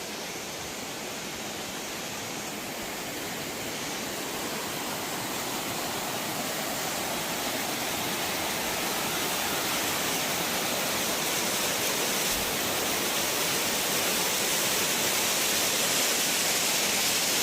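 Waterfall rushing in a steady roar of falling water, growing gradually louder.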